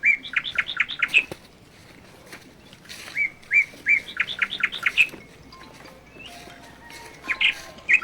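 A bird singing a repeated phrase three times. Each phrase is a few notes followed by a quick run of chirps that climb in pitch.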